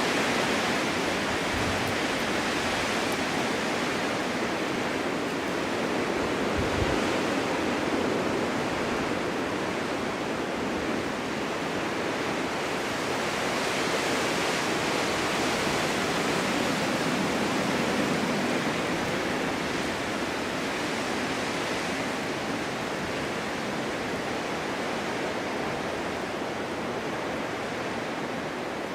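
Snowstorm wind blowing through a forest: a steady, dense rushing that slowly swells and eases, dropping a little near the end.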